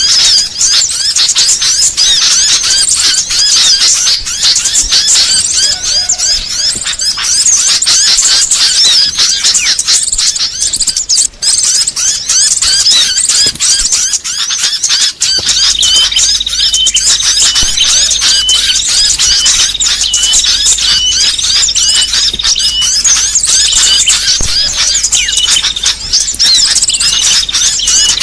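A dense chorus of many small songbirds chirping and twittering at once in high, squeaky calls: a layered bird-lure recording meant to draw small birds in. From about halfway through, a steady series of short, even notes repeats about twice a second over the chatter.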